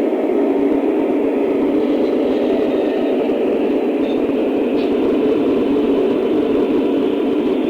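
Lionel O-scale model train running on its track: a steady, unbroken rolling rumble and whir.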